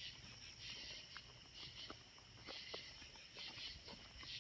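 Faint night chorus of insects calling from the trees: a steady high buzz with short rasping pulses repeating in groups of three or four.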